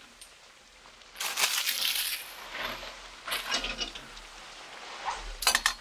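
Short metallic clinks and rattles of camp cooking gear and utensils being handled, in three brief bursts.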